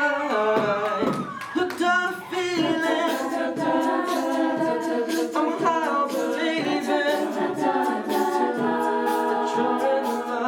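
A cappella group singing sustained chords in several parts, with no instruments and what sounds like vocal percussion clicking on top.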